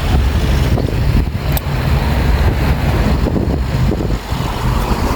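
Wind buffeting the microphone: a steady, loud low rumble with a rushing hiss above it.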